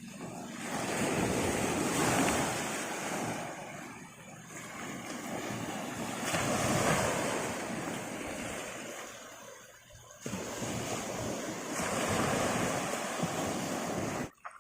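Sea waves breaking and washing up the shore, the surf swelling and fading about every five seconds, with some wind on the microphone.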